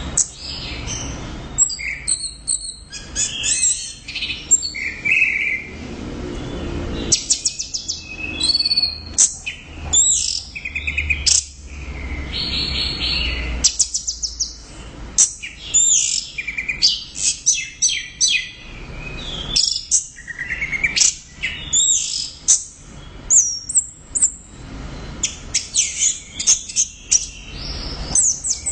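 Orange-headed thrush singing a long, loud, unbroken run of varied phrases: sweeping whistles, fast trills and rapid chattering notes, one after another with only brief gaps.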